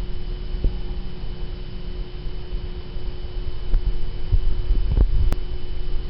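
Steady electrical hum over a low rumble, with a few faint clicks and one sharp click about five seconds in.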